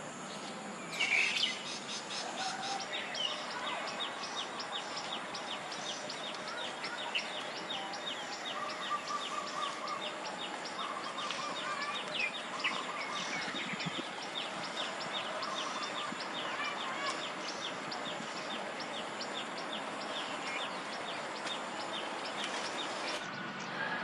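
Outdoor ambience of small birds chirping, with a long, steady run of short, evenly repeated chirps and a louder chirp about a second in.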